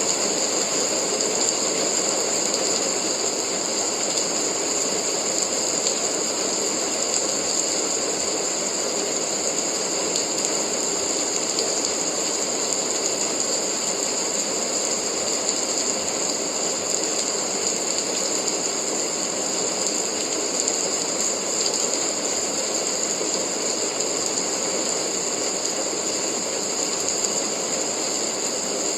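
Steady rain, an even unbroken hiss that does not change.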